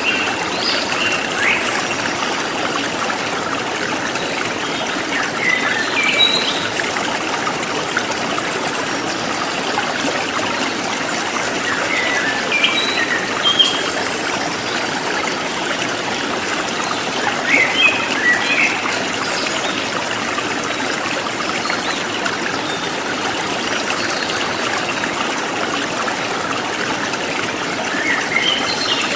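Forest stream flowing steadily, with small groups of short, high bird chirps every few seconds.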